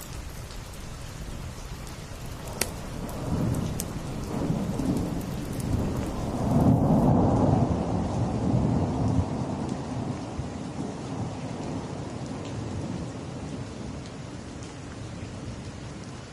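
Steady rain with a deep roll of thunder that swells a few seconds in, peaks near the middle and slowly dies away. A few sharp wood-fire crackles pop in the first seconds.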